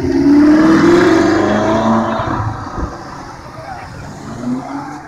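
Audi R8 sports car engine accelerating past, its note rising in pitch over the first second or so, then fading as the car pulls away. A second car's engine swells briefly near the end.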